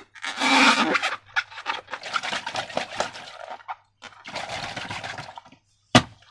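Slime being squished and worked by hand, a dense run of crackling and sticky sounds that comes in several pulses, then a single sharp knock near the end.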